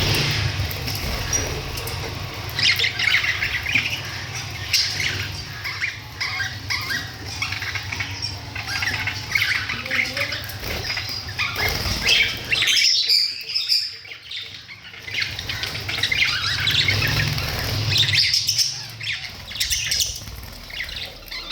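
Parrots squawking and chattering in quick, overlapping calls, easing off briefly just past the middle.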